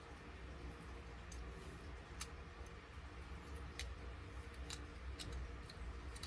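A handful of sharp, light clicks at irregular intervals, like small parts or tools being handled, over a steady low hum.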